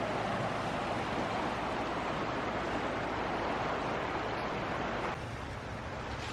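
Steady rush of a swollen, fast-running river, the water risen quickly and carrying leaves and debris. It eases slightly about five seconds in.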